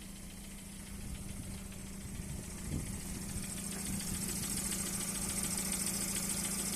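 Car engine idling steadily with a low even hum; a high hiss grows in about halfway through and the sound gets a little louder.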